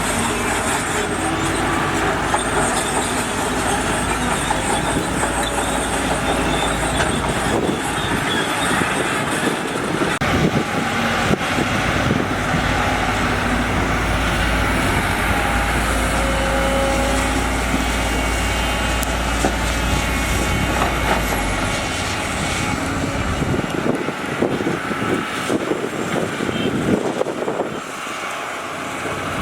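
Heavy diesel construction machinery working: engines running with intermittent metal clanks and short squeals. The deep low rumble drops away about three-quarters of the way through.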